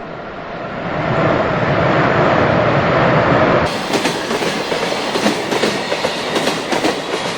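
Train running past on the rails, its noise swelling to loud within the first second or so; about halfway through the sound changes to a rapid clatter of wheels over rail joints, which stops abruptly at the end.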